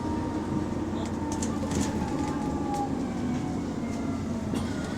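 Bus engine running under way, heard from inside the bus, which has an exhaust leak. A faint whine falls in pitch between about one and three seconds in, with a few sharp rattles in the same stretch.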